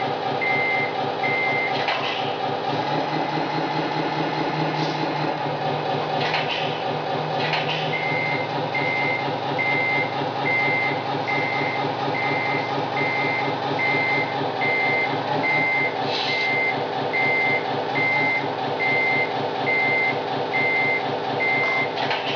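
Tamiya Scania RC model truck's sound unit playing a steady diesel engine with a reversing beeper, about one and a half beeps a second. The beeping stops for several seconds near the start, while a lower hum joins the engine, then resumes; a few short clicks sound over it.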